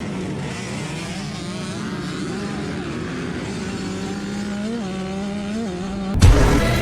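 Dirt bike engines running steadily, with two short throttle blips near the end. About six seconds in it cuts suddenly to louder music with a beat.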